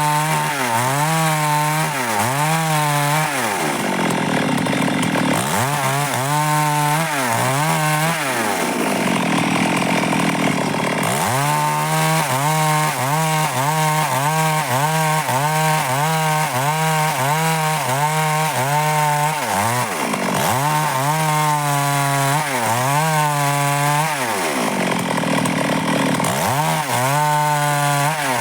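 Stihl MS 382 two-stroke chainsaw cutting dry wood: the engine runs at high revs, its pitch sagging and recovering again and again as the chain bites. It drops back to idle twice, about four seconds in and again about nine seconds in.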